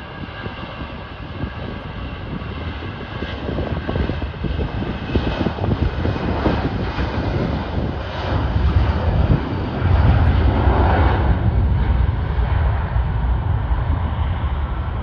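Jet airliner engines passing close by with a deep rumble that grows louder and peaks about two-thirds of the way through.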